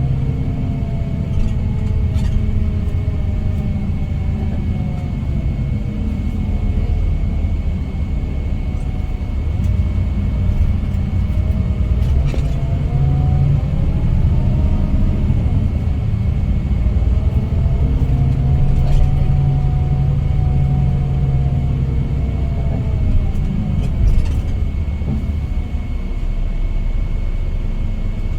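Scania K410IB coach's diesel engine running on the move, heavy in the low end, its pitch rising and falling several times as the engine speeds up and eases off. A faint steady high whine sits above it throughout.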